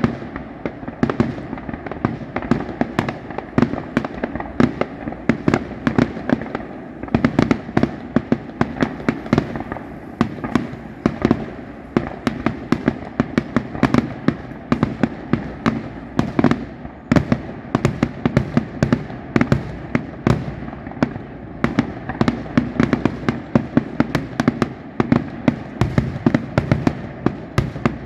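Display fireworks going off in a dense, continuous barrage of bangs and crackles, several a second.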